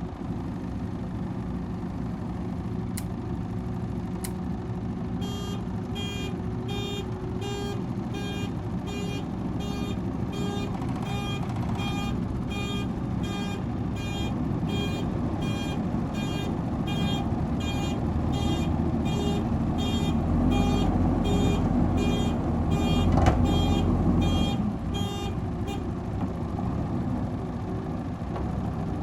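JCB 116D vibratory road roller's diesel engine running steadily, with a reversing alarm beeping evenly about one and a half times a second from about five seconds in until near the end. Past the middle the engine gets louder and deeper for a few seconds.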